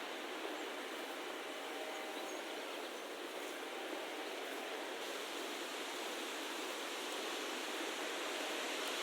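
Steady, even rushing noise of an outdoor ambience, with a few faint high chirps in the first few seconds.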